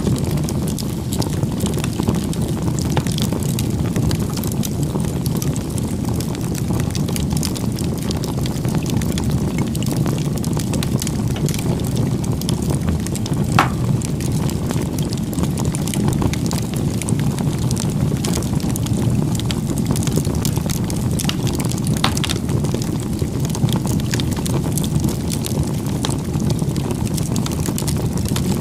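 Wood fire burning: a steady low rumble of flames with constant fine crackling, and a few sharper pops, the clearest about halfway through and again near three-quarters of the way.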